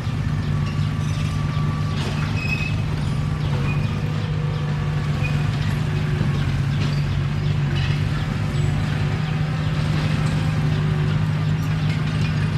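Komatsu D21P bulldozer's diesel engine running steadily, with scattered light clanks over the engine hum.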